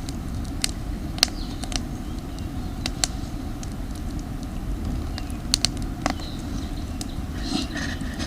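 Campfire crackling, with sharp separate pops every second or so over a steady low rumble.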